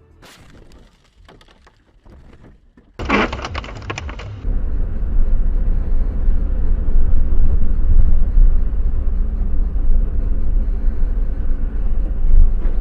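Dashcam car sound: faint for about three seconds, then a sudden loud crash-like noise, followed by a loud steady low rumble of a vehicle on the road.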